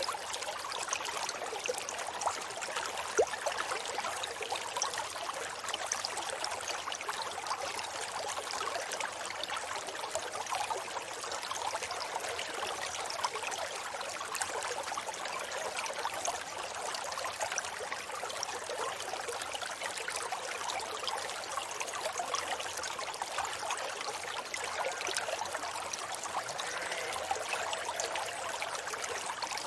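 River water flowing steadily, an even rushing and trickling. There is one brief sharp tick about three seconds in.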